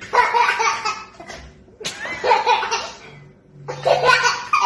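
Baby laughing in three high-pitched bursts of giggles, with short pauses between.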